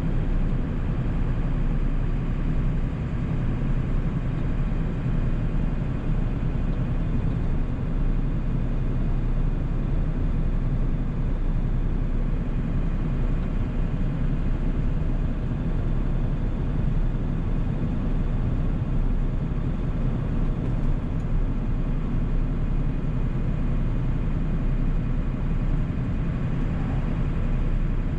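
1997 7.3 Powerstroke turbo-diesel V8 running steadily while the truck cruises, a constant low rumble with road noise.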